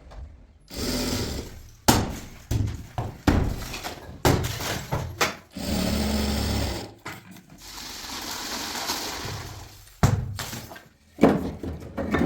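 Building work: a rapid series of sharp knocks and crashes, broken by stretches of steady machine-like noise.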